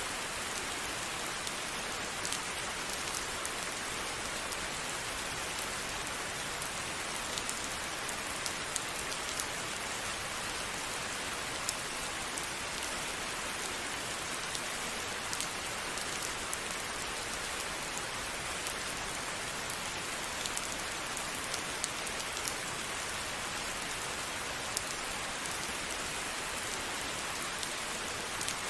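Steady rainfall, an even hiss of rain on surfaces with scattered individual drops ticking now and then.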